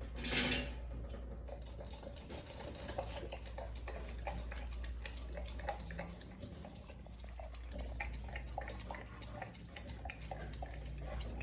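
Dog eating a wet food mash from a bowl: a steady stream of small wet smacking and clicking sounds, with one brief louder noise about half a second in.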